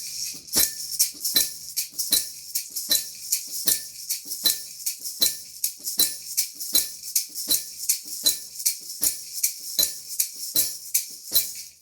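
A bell, a maraca and a tambourine played together in a steady beat, about two and a half strokes a second, over a continuous high rattle. The playing stops suddenly at the end.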